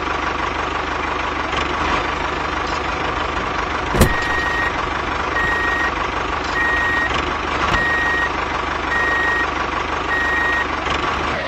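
A small toy vehicle's motor runs steadily. About four seconds in there is a click, and then its reversing beeper sounds six even beeps, a little over a second apart.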